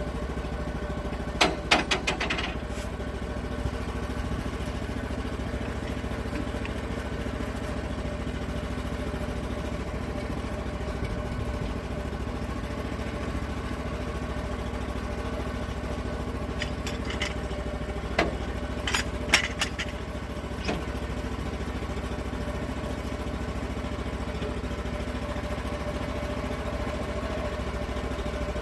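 Portable sawmill engine running steadily, with a cluster of sharp knocks or clanks about two seconds in and a few more past the middle.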